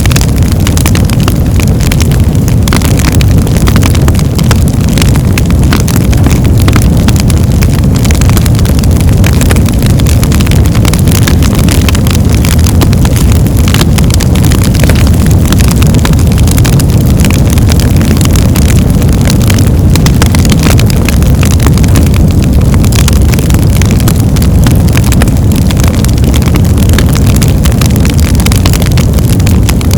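Birchwood fire burning: a loud, steady low rumble under constant crackling and popping.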